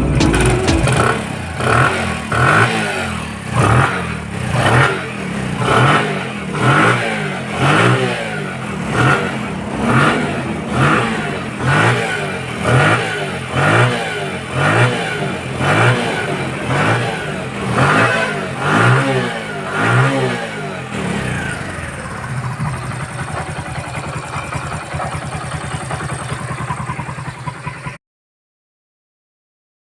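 Bajaj CT 100's single-cylinder four-stroke engine revved in quick throttle blips about once a second, then left to idle steadily for several seconds before the sound cuts off suddenly.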